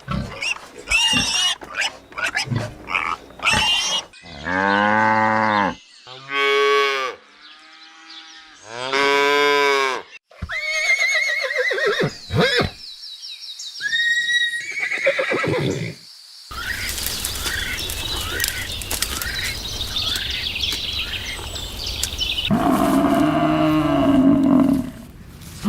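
A series of different farm animal calls, one clip after another: short grunting bursts, then several long drawn-out calls, then a noisy stretch of many quick chirping calls, and another low call near the end.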